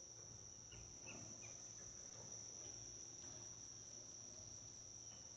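Crickets chirping faintly in a steady, continuous high-pitched trill, with a few faint short chirps about a second in.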